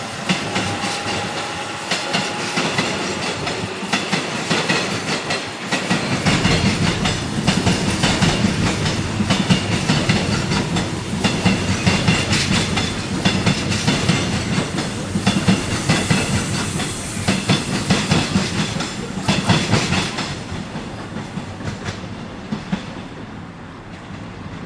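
A train passing through a station, its wheels clicking over the rail joints. A low rumble comes in about six seconds in, and the sound fades away near the end as the train moves off.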